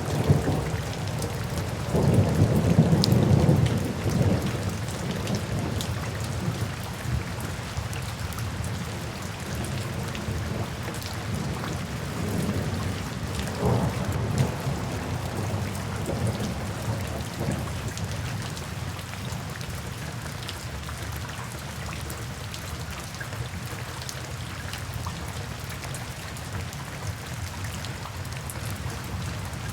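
Steady rain falling, with low rolls of thunder. The biggest roll comes about two seconds in and lasts a couple of seconds; a weaker one follows around the middle.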